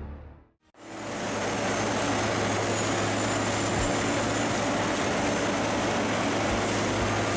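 Heavy machine running steadily from about a second in: a deep engine drone with a high, steady whine above it.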